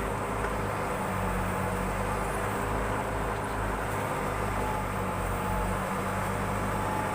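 Backhoe loader's diesel engine running steadily with an even low hum.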